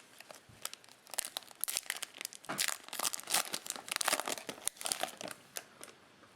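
Cellophane wrapper of a Topps Chrome cello pack crinkling as it is torn open, a dense run of sharp crackles lasting a few seconds.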